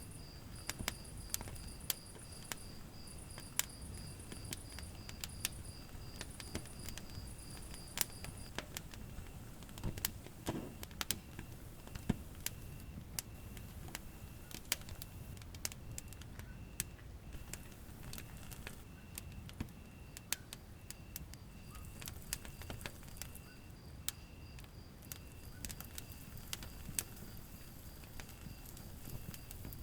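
Wood fire burning in a fireplace, crackling with frequent sharp pops over a low rumble of flame. A high chirp pulses evenly and steadily in the background.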